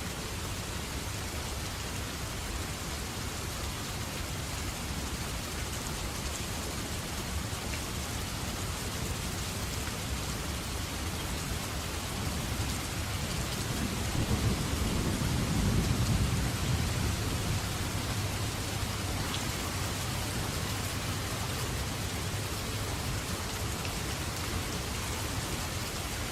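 Steady heavy rainfall, with a low roll of thunder swelling in about halfway through and fading out a few seconds later.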